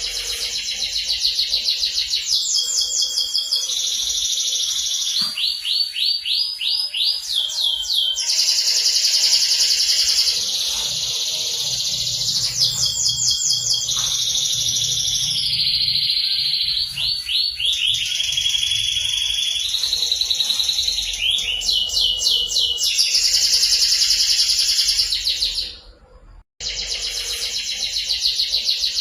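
Domestic canary in full song: a long, unbroken run of rapid trills and rolling tours, with repeated quick downward-sweeping notes. The song stops briefly about 26 seconds in, then carries on.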